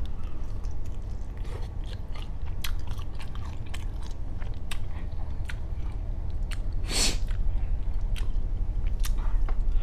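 Close-miked chewing of jumbo shrimp in sauce: irregular wet mouth clicks and smacks, with one longer, louder noisy smack or slurp about seven seconds in.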